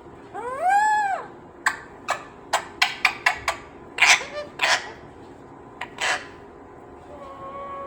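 A pet green parrot calling: one call that rises and falls in pitch about half a second in, then a quick series of short, harsh sounds over the next few seconds. A steady whistle-like tone starts near the end.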